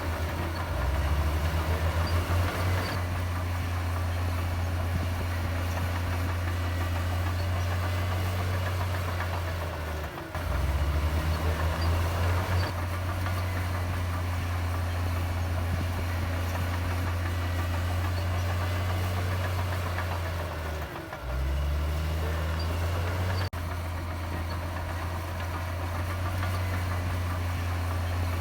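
Komatsu D58E bulldozer's diesel engine running under steady load with a deep drone. It drops off briefly about ten seconds in and again about twenty-one seconds in, and each time revs back up with a rising pitch.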